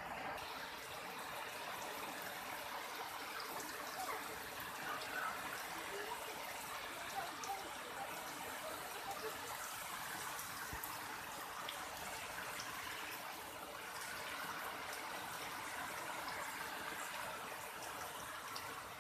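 Heavy rain falling steadily: an even hiss of water with scattered drips and splashes.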